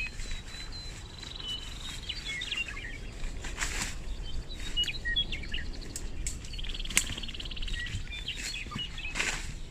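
Several small birds chirping and calling, with a fast, buzzy trill a little past the middle. A couple of brief rustles and a sharp click break in between.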